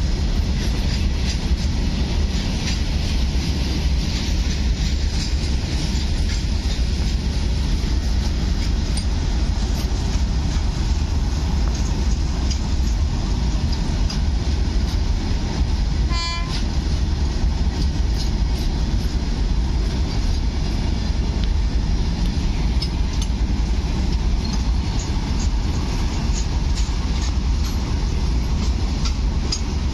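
Freight train of open-top box wagons rolling past at close range: a steady heavy rumble with the clatter and clicks of wheels over the rails. About halfway through, a brief high-pitched tone cuts in.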